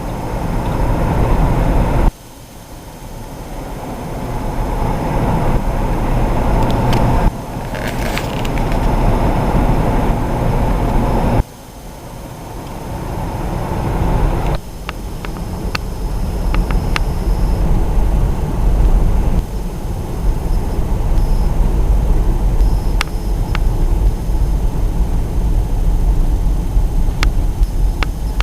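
Road noise inside a moving car: a steady low rumble of tyres and engine. It drops off suddenly three or four times, then builds back up.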